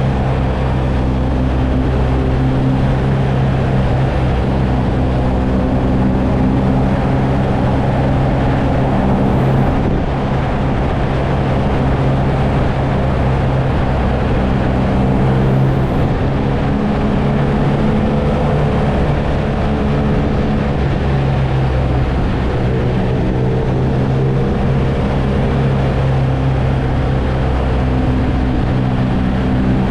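BMW R nineT's air/oil-cooled boxer twin running at a steady cruise, holding nearly constant revs, with a slight easing about ten seconds in.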